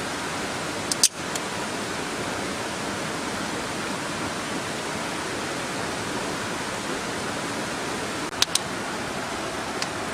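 Steady rushing of a flowing stream, with a few sharp pops from a wood campfire: one about a second in and a quick cluster near the end.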